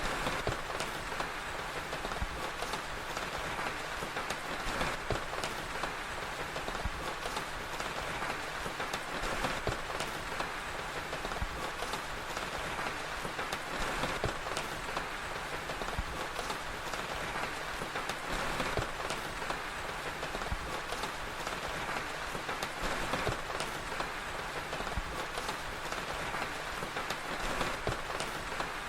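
Steady rain: an even hiss dense with small ticks of drops.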